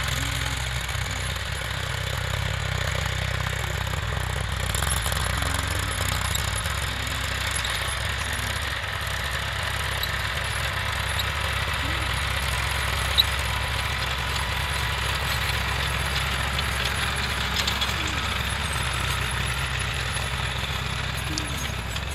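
Eicher 480 tractor's diesel engine running steadily while it pulls a rotavator tilling the soil. There is one sharp tick about thirteen seconds in.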